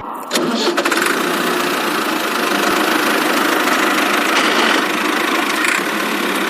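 Vehicle engine running steadily at idle with a rattly, knocking texture, cutting in abruptly a fraction of a second in and holding an even level.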